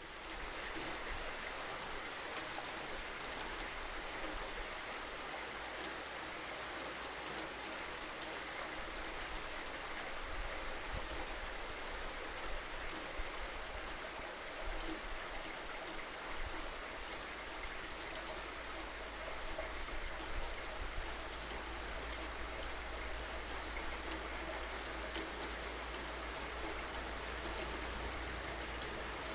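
Steady rain falling, an even hiss with a few briefly louder spatters of drops.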